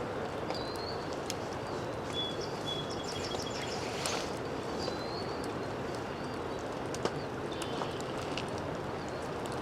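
Outdoor rainy-day ambience: a steady hiss with scattered light ticks of rain, and short bird chirps several times over it.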